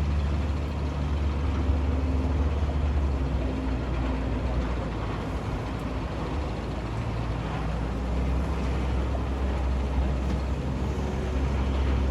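Heavy construction machinery's diesel engine running steadily with a deep low hum.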